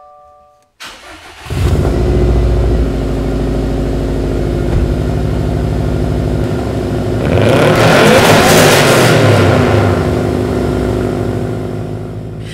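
2015 Subaru WRX STI's turbocharged 2.5-litre flat-four starting up. The starter cranks for about a second, the engine catches with a loud flare and settles to a steady idle. Around the middle it is revved up once and falls back to idle.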